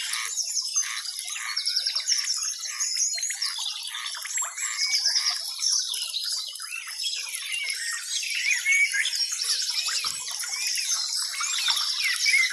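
A dense chorus of many small birds chirping and twittering at once, with high-pitched overlapping calls that never let up.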